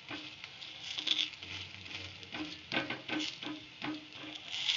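Paratha shallow-frying in mustard oil on a pan: a steady sizzle and spatter that swells about a second in and again near the end, with a run of quick knocks and clicks on the pan through the middle.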